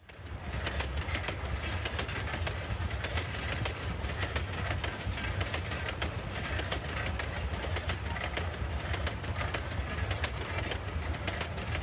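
Narrow-gauge sugar cane train running past: a steady low diesel locomotive rumble under fast, uneven clicking and clattering of wagon wheels over the rail joints.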